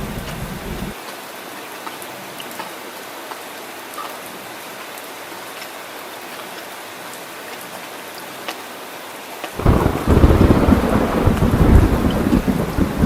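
Steady rain with thunder: a deep rumble cuts off about a second in, leaving only the hiss of falling rain, then a loud rolling thunder rumble breaks in suddenly near the end.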